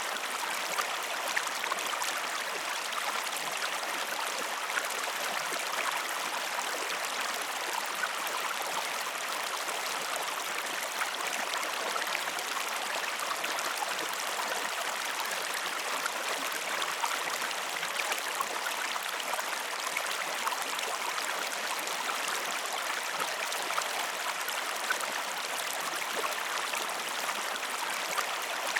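Flowing stream, a steady, even rush of water with fine trickling and small splashes throughout.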